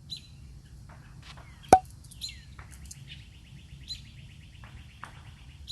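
Small birds chirping, with short high notes and a falling call early on, then a fast trill of repeated notes through the second half. A single sharp click a little under two seconds in is the loudest sound.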